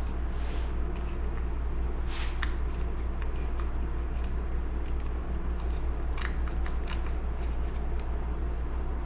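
Small scattered clicks and scrapes of chainsaw carburetor parts and gaskets being fitted by hand, a few around two seconds in and again around six seconds in, over a steady low hum.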